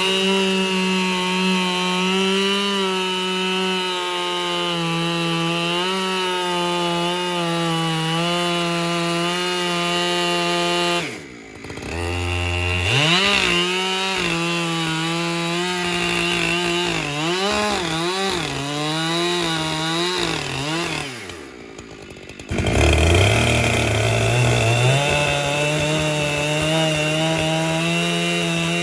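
Husqvarna 592XP two-stroke chainsaw on an Alaskan chainsaw mill running under load, ripping a log into lumber, its engine note mostly steady. Twice the sound drops out for about a second. In between, the revs rise and fall repeatedly, and after the second drop-out the engine pitch climbs back up to cutting speed.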